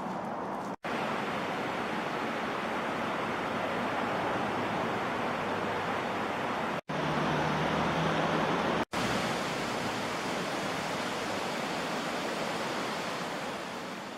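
Steady rushing of a fast creek, broken off abruptly three times and fading out at the end.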